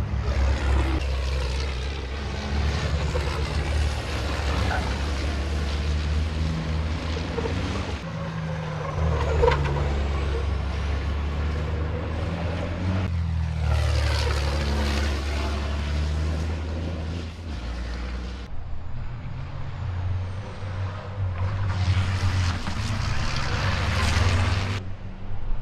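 Racing trucks' big diesel engines running hard on the circuit, a heavy low drone. The sound changes abruptly several times, with louder stretches where trucks come close.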